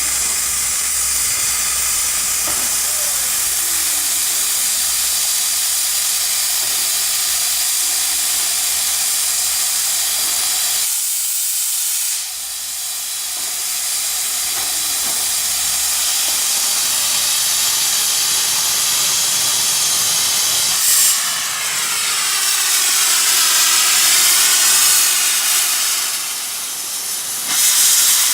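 FD20 steam locomotive hissing loudly and steadily as it vents steam. The hiss dips briefly about eleven seconds in, then returns.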